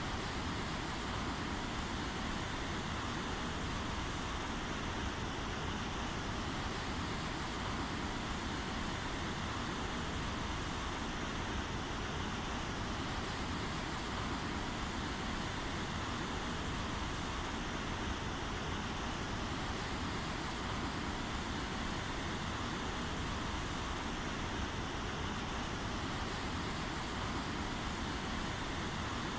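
Steady rainfall, an even wash of noise with no breaks or single drops standing out.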